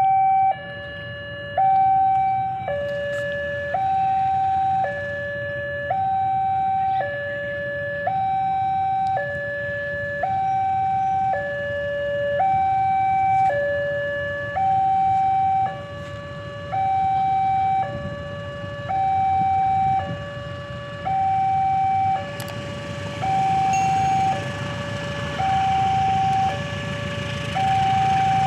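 Two-tone electronic warning siren, a high and a low tone alternating about once a second without a break. Under it there is a low rumble that swells near the end.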